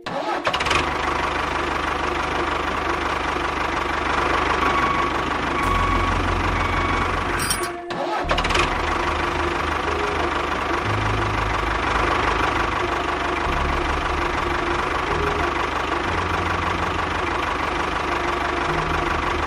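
Engine of a mini tractor-type machine running with a steady knocking beat, dropping out briefly about eight seconds in and then running on.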